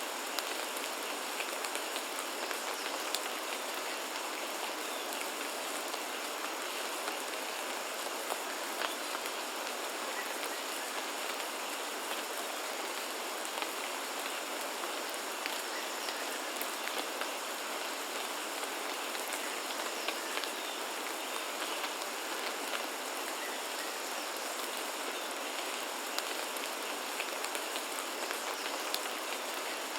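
Steady rain falling, with many individual drops ticking on surfaces throughout. A faint steady high tone runs underneath.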